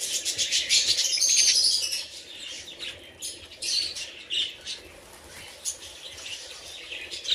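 A flock of budgerigars chirping and chattering: a dense burst of high chirps for about the first two seconds, then scattered single chirps.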